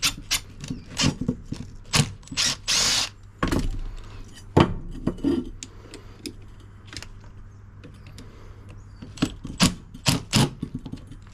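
A power drill-driver running in short bursts on the screws of a dishwasher motor, between sharp clicks and clanks of metal handling. The screws are stripping.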